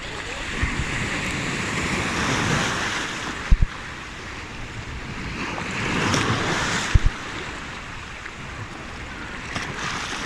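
Sea waves washing in, the surf swelling twice. Two short low thumps, a bit over three seconds apart, cut through it.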